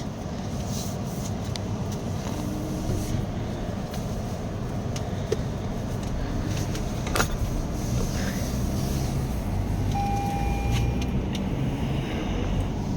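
Steady low rumble of a car heard from inside the cabin. There is a single sharp click about seven seconds in and a short faint tone around ten seconds in.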